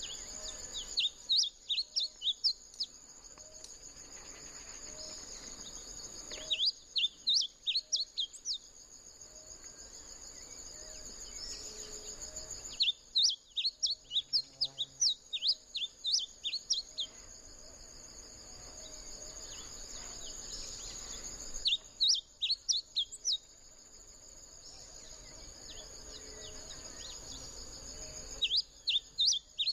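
A bunting singing: bursts of quick, high chirping notes lasting two to four seconds, repeated about every seven seconds, over a steady high whine.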